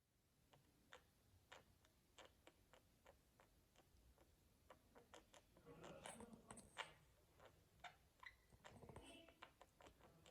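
Pet budgies, faint: a run of small irregular clicks with a few soft, brief chirps and chatter in the middle and near the end.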